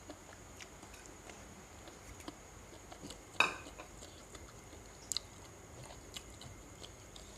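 A person eating: quiet chewing and small scattered clicks, with one sharp, louder clink about three and a half seconds in and a quick double tick near five seconds.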